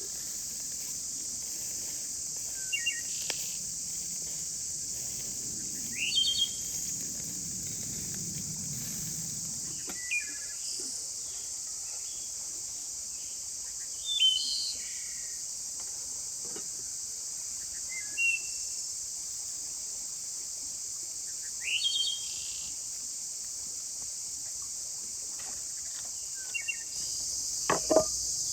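A steady, high-pitched insect chorus, with short bird chirps every few seconds and a rooster starting to crow near the end.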